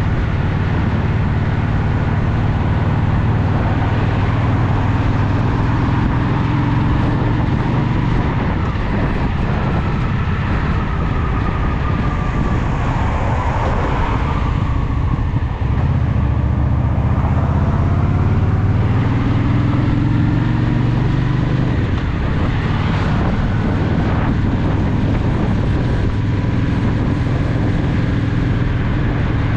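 Honda Shadow VT750's V-twin engine running steadily under way. The low drone eases off about twelve seconds in and builds again a few seconds later.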